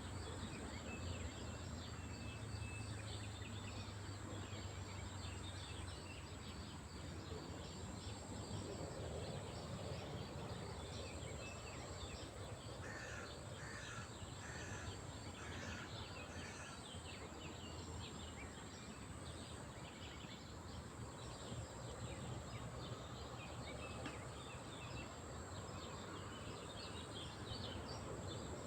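Lakeside chorus of small songbirds chirping continuously. About a third of the way in, a larger bird gives a run of about four harsh calls.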